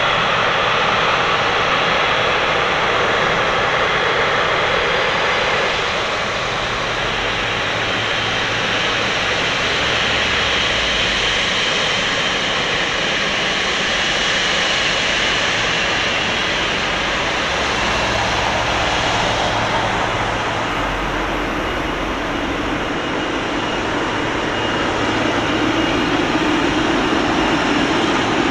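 Jet engines of a Boeing 777 airliner: a continuous loud rush with a high steady whine on top, easing off slightly a few times and building again near the end.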